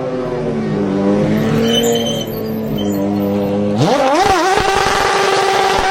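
V12 car engine holding a steady low note, then about four seconds in revving sharply up and holding a high, steady note.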